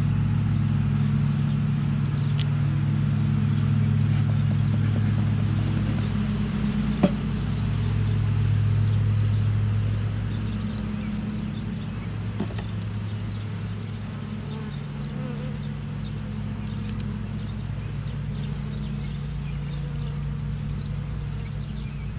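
Honeybees buzzing around an open hive in a steady low drone, louder in the first half and easing off later, with a single sharp click about seven seconds in.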